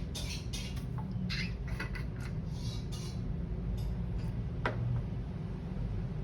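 A quick series of short rustles or scrapes, then a single sharp click, over a steady low rumble.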